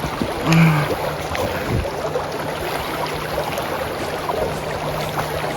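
River water rushing and churning around a kayak in whitewater, a steady dense noise. A faint low steady hum runs under it from about two seconds in.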